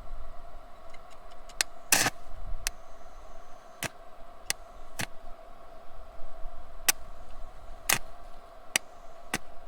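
Arc welder crackling with irregular sharp pops over a steady hum, as a washer is welded onto a twisted-off bolt stub to give a grip for backing it out.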